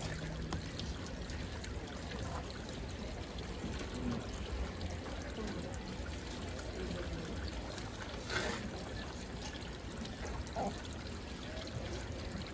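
Water running and splashing steadily, with a few faint short knocks.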